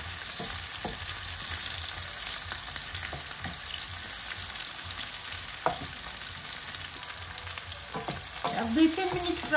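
Sliced onion and red pepper sizzling in hot oil in a non-stick frying pan, stirred with a wooden spatula that knocks and scrapes against the pan now and then. Near the end, a brief wavering pitched sound.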